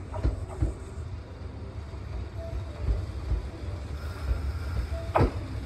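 Kintetsu 1240-series two-car electric train pulling in slowly, a low steady rumble with wheels clacking over rail joints: a couple of knocks near the start and a sharper pair near the end.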